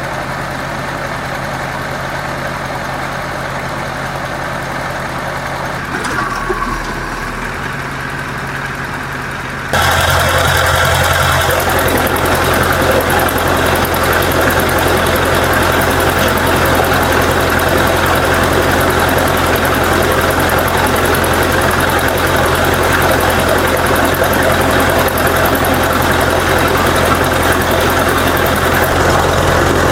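An engine idling steadily. About ten seconds in, the sound abruptly becomes louder and fuller, then stays steady.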